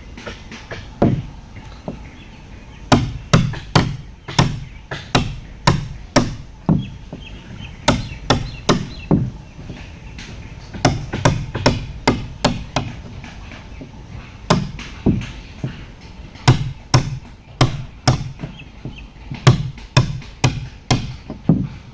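Repeated sharp blows of a hand tool striking wood during wooden boat building, coming about two to three a second in runs with short pauses.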